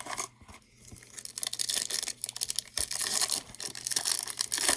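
Trading cards sliding against each other in the hand, a rapid scratchy rustle that builds about a second in and stays loud.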